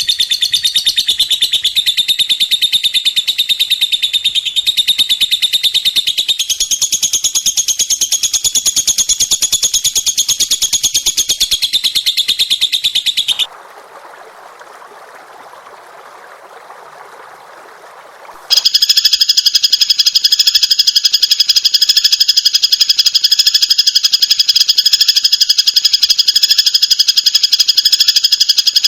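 Songbird song: a loud, very rapid high trill, broken about halfway by some five seconds of quieter hiss, then another rapid trill in steadier, lower bands.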